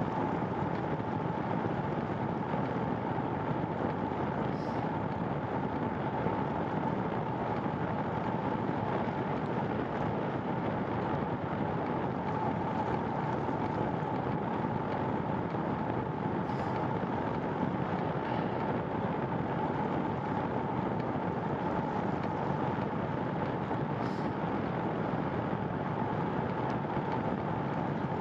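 Steady wind and road noise of a bicycle being ridden, with a constant high hum running through it.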